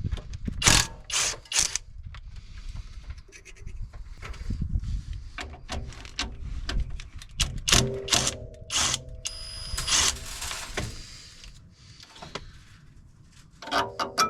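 Hand tools working on a car's brake line fittings: irregular metal clicks and clanks, with a few short steady squeaking tones partway through and near the end.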